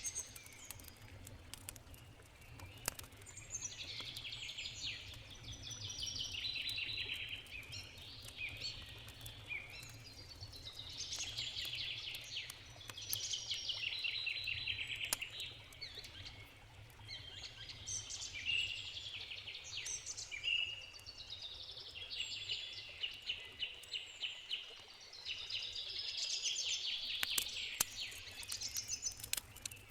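Songbirds singing in repeated trilled phrases every few seconds, with a few sharp crackles from a campfire and a steady low rumble underneath.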